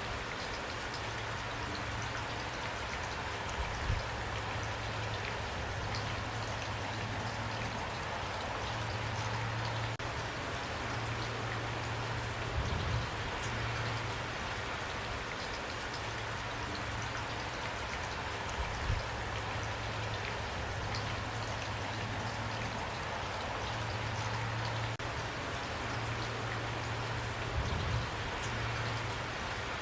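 Steady rain falling, an even hiss of drops, with a few brief low thumps.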